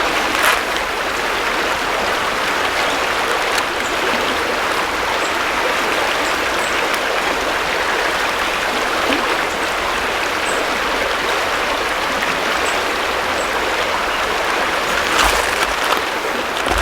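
River water rushing steadily, with a few brief knocks, one just after the start and a couple near the end.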